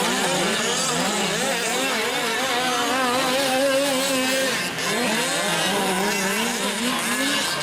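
Several 1/5-scale gas-powered RC off-road trucks racing. Their small two-stroke engines rev up and drop back at different pitches, overlapping with one another throughout.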